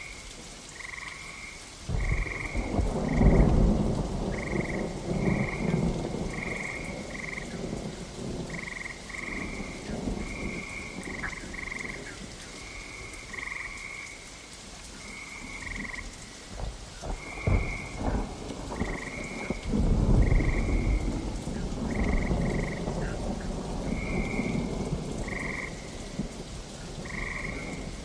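Frogs calling in short repeated notes over steady rain, with a long roll of thunder about two seconds in, sharp thunder cracks a little past halfway, and another long rumble soon after. The first rumble is the loudest.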